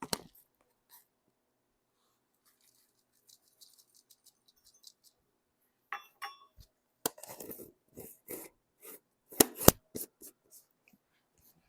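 Kitchen dishes and utensils handled while ingredients are added to a mixing bowl: faint light ticks, then a couple of ringing clinks and a run of knocks, with two sharp loud knocks a few seconds from the end.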